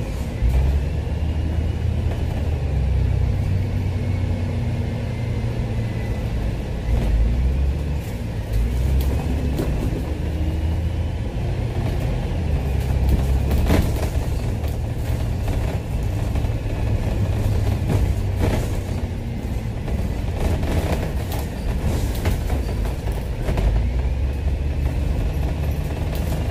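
A Dennis double-decker bus running, heard on board: a steady low engine rumble with a faint whine that rises and falls in pitch, and a few sharp rattles or knocks now and then.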